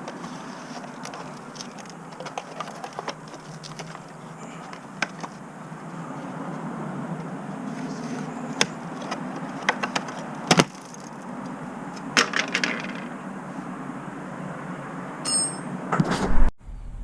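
Scattered small clicks, knocks and clinks of motorcycle parts being handled and fitted, over a steady low hum. A quick run of clicks comes about 12 s in, and a louder knock just after 16 s, after which the sound cuts off abruptly.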